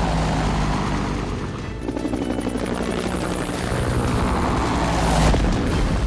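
Cartoon helicopter sound effect: the rotor chopping steadily as the helicopter flies, with background music underneath.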